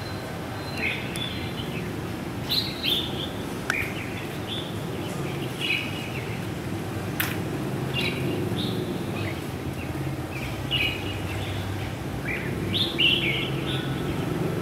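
Red-whiskered bulbul calling in short chirpy phrases every second or two, over a steady low background hum. One sharp click about seven seconds in.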